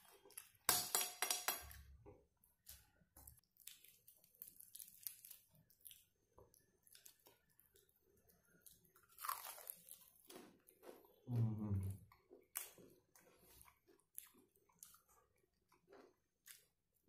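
Crunching bites and chewing of crispy deep-fried chicken coating, with irregular crackles as the pieces are pulled apart by hand. A loud crunch comes about a second in, and a brief low hum about eleven seconds in.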